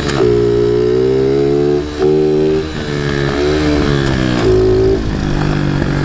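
Small Chinese Baja pit bike engine running under way, its pitch rising and falling as the throttle is worked, with short drops and pick-ups a few times.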